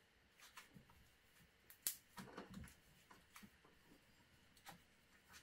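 Near silence, broken by a few faint handling clicks and soft knocks, with one sharper click about two seconds in.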